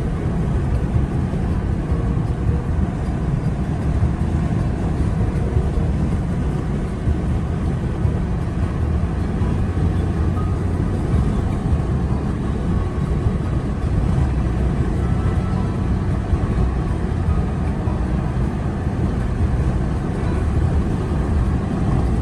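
Vehicle driving on a rough track: a steady, loud low rumble of engine and road noise.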